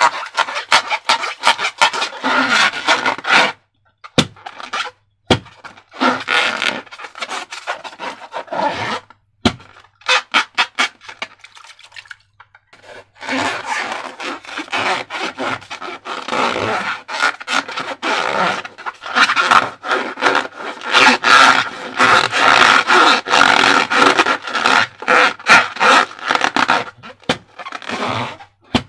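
Hands rubbing and squeezing a latex balloon, giving rapid, irregular squeaks and crackles. There are short breaks about four seconds in and again around eleven to thirteen seconds.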